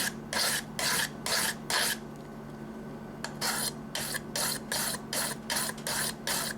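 Knife blade stroked back and forth on a wet diamond sharpening stone, a rasping stroke about two to three times a second. The strokes stop for a second or so about two seconds in, then resume.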